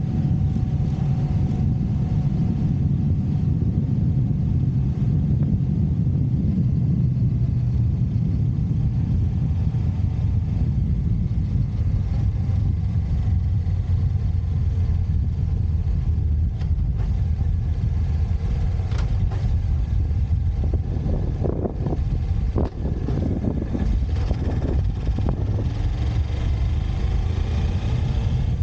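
Motorcycle engine running on the move, with a steady low rumble of wind and road noise. Near the end the engine's pitch rises as it speeds up.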